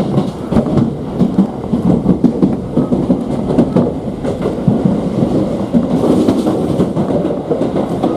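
Tobu commuter train running along the line, heard from inside the carriage: steady wheel rumble with an irregular clatter of wheels over the rails.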